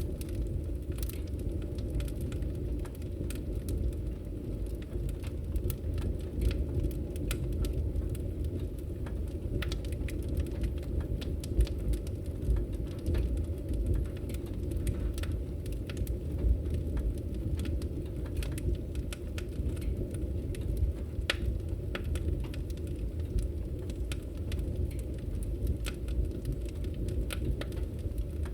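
Fire burning in a fireplace: a steady low rumble with scattered crackles and pops, a few of them louder.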